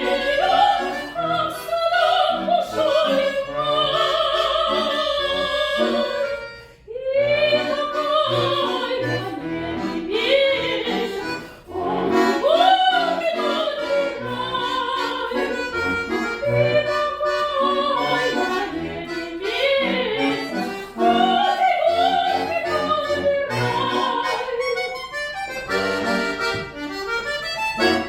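A classically trained voice sings with vibrato over sustained chords from a bayan (button accordion). The singing pauses briefly twice, and the accordion plays on alone near the end.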